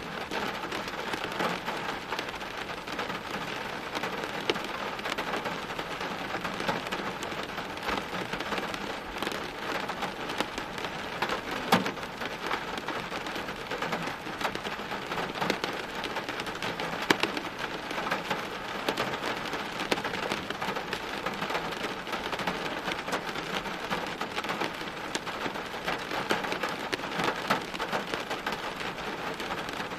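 Steady heavy rain, a dense patter of drops hitting hard surfaces, with a couple of sharper single drop hits around 12 and 17 seconds in.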